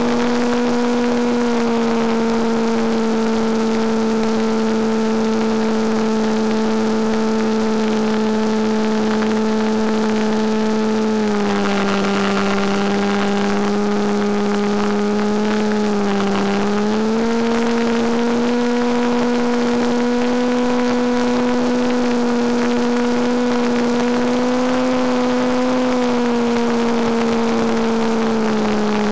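Electric motor and propeller of a Penguin FPV model airplane running steadily in flight: a loud, even drone with a rushing hiss underneath. Its pitch steps down about eleven seconds in, dips and comes back up around sixteen seconds, and drops again near the end as the throttle changes.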